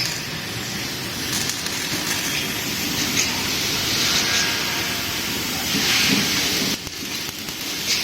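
Four-gun laser welding machine running, a steady hissing noise. It drops off suddenly for a moment near the end, then carries on.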